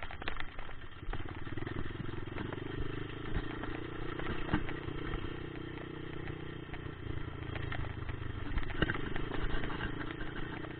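Dirt bike engine running at a steady speed from about a second in, with scattered clicks and knocks over it.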